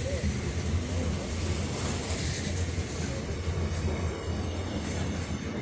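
Train rolling past on the track: a steady, continuous rumble of wheels on rails with an even level throughout.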